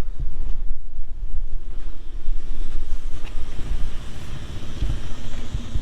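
Low, uneven rumble of an idling vehicle engine mixed with wind buffeting the microphone.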